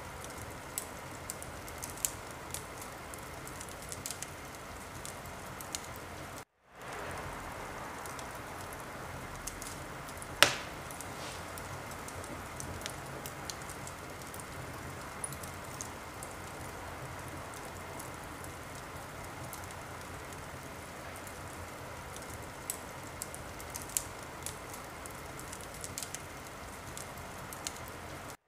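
Wood fire burning in a fireplace: a steady hiss of flames with scattered crackles and pops, one much louder pop about ten seconds in. The sound cuts out for a moment about six and a half seconds in, then resumes.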